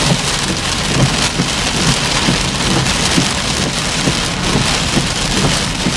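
Torrential rain from a severe thunderstorm pelting a car, a dense, steady patter of drops.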